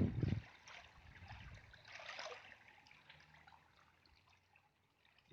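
Water trickling and lapping softly, with a few low muffled bumps at the very start. It fades away toward the end.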